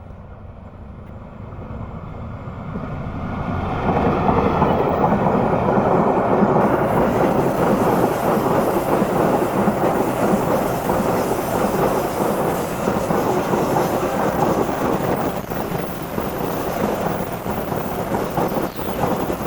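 A train rushing past on the rails, growing louder over the first four seconds as it nears and then holding a steady loud rumble of wheels and carriages with clickety-clack over the rail joints.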